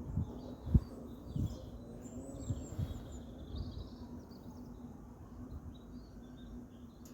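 Small birds chirping and twittering. A few low thumps come in the first three seconds, the loudest just under a second in, over a faint steady hum.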